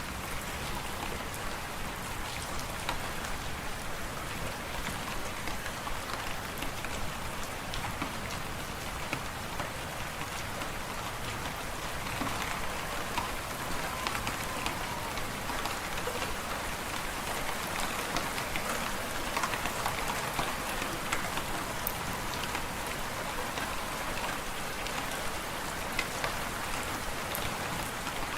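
Fireplace fire crackling steadily: many small sharp pops over a constant hiss.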